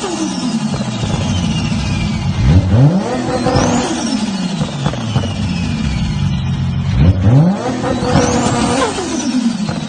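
Nissan Skyline R34 GT-R's twin-turbo RB26 straight-six revving hard twice, each time climbing quickly in pitch and then falling away slowly, with a high whine.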